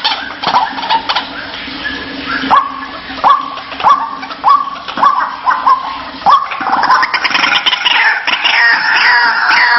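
White-breasted waterhen calling: a run of loud, repeated "kruak" notes, about one and a half a second, from about two and a half seconds in, then a denser overlapping run of calls from about seven seconds.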